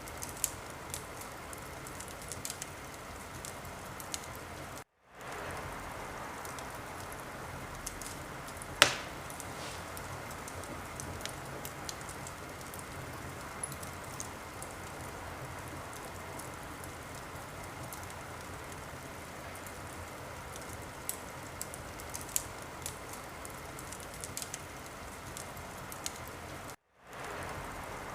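Wood fire crackling: a steady hiss with many small scattered pops and one loud pop about nine seconds in. The sound cuts out completely for a moment twice, at about five seconds and near the end.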